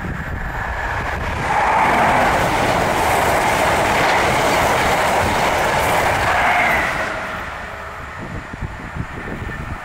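A high-speed passenger train on the East Coast Main Line passing through the level crossing at speed. Its rush builds, stays loud for about five seconds, then fades away near the end.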